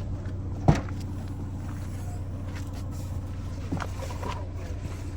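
An engine idling steadily, with a sharp knock about a second in and a lighter one near the middle.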